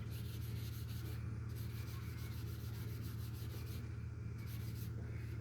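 Oil being rubbed into a dry wooden knife handle, a soft repeated rubbing, over a steady low hum.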